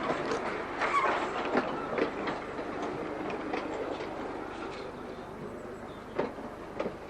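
Narrow-gauge electric tram running along the track, its wheels clicking over the rail joints. The running noise gets gradually quieter, with two louder clicks near the end.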